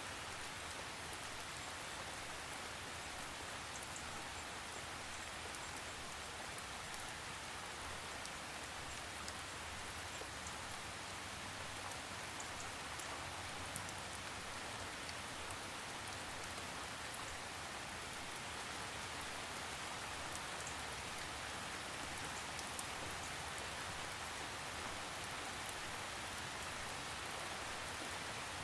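Steady rain falling, an even hiss with small scattered drop ticks, without thunder.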